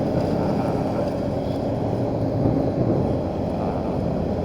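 Motorcycle engine running at a steady pace while riding.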